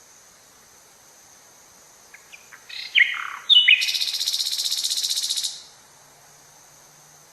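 Forest bird song: a few short thin notes about two seconds in, then some falling notes and a loud, rapid buzzy trill lasting about two seconds that stops abruptly, over a faint steady high-pitched hiss.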